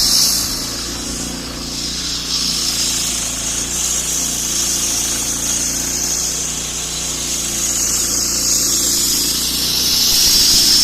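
Concrete cutting machine's blade sawing a groove in a concrete road slab: a steady, high-pitched grinding over a low engine hum, easing off a little about a second in and growing louder again near the end.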